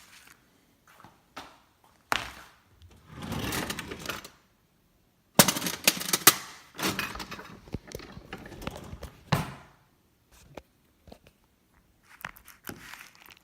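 Hands handling things at close range: scattered knocks and clacks with bursts of rustling, two of the knocks loud, about five and six seconds in.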